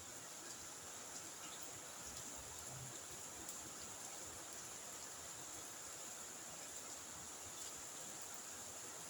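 Faint, steady high-pitched chorus of night insects such as crickets, over a soft even hiss.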